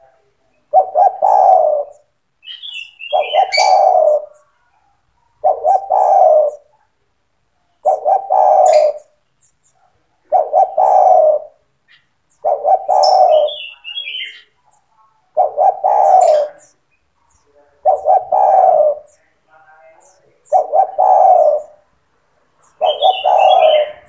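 Spotted dove (tekukur) calling steadily in full song, repeating its cooing phrase about every two and a half seconds, some ten times.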